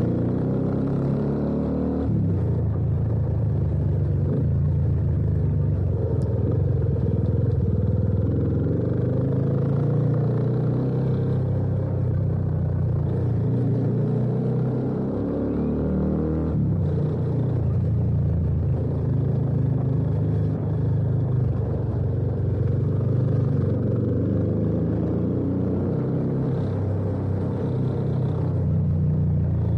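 Yamaha FZ25's single-cylinder engine running through an aftermarket exhaust with an Akrapovič-replica slip-on while the motorcycle is ridden, its note shifting about two seconds in and again around the middle.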